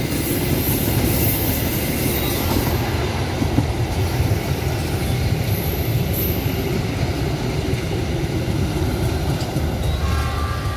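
Passenger trains passing close by on the rails: a steady rumble of wheels on track, with a high wheel squeal in the first few seconds and again about six seconds in.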